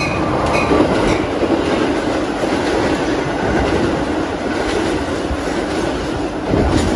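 Metra commuter train of stainless-steel bilevel gallery cars running through at speed close by: a steady rush of wheel and rail noise, with wheels clicking over rail joints a few times.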